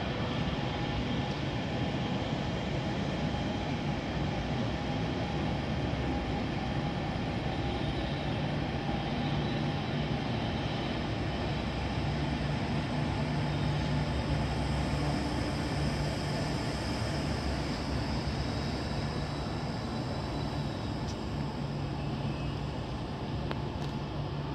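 Train running through a station: a steady rolling noise, with a low hum that comes up about eight seconds in and holds.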